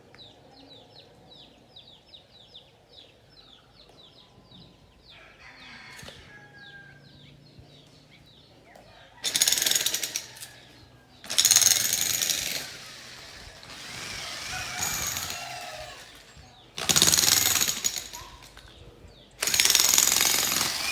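Jackhammer breaking up ground in bursts of one to two seconds with short pauses between, starting about nine seconds in.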